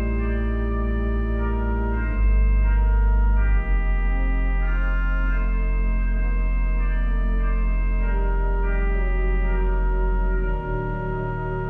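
Organ playing slow sustained chords with deep bass notes, the chords changing every few seconds.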